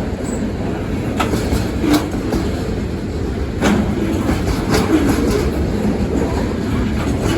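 Freight cars of a South Carolina Central local train rolling past fast, a steady loud rumble of steel wheels on rail with a few sharp clacks as wheels cross rail joints. The cars are wobbling on uneven track.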